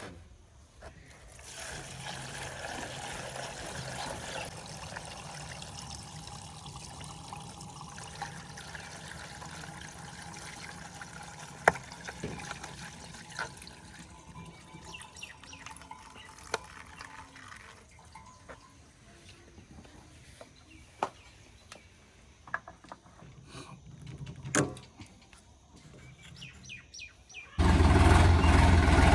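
A steady, water-like rushing noise with scattered clicks and a few faint chirps. Near the end it gives way abruptly to the much louder running of a Sonalika DI 50 RX tractor engine.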